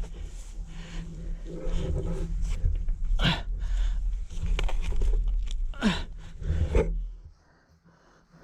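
Enduro motorcycle engine running low and steady, then cutting out about seven seconds in. Twice over it comes a short high cry that falls quickly in pitch.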